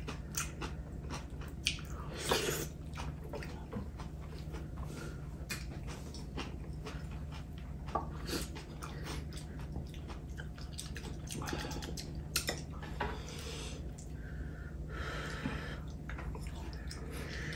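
Close-miked eating: people chewing soft rice porridge and salted seafood side dishes, with scattered light clicks of chopsticks and spoons against ceramic bowls. A low steady hum sits underneath.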